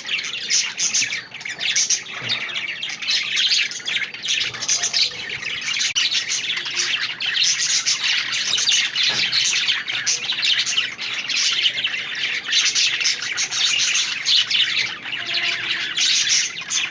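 Budgerigars chattering, a busy stream of many quick overlapping high chirps and warbles with no pause.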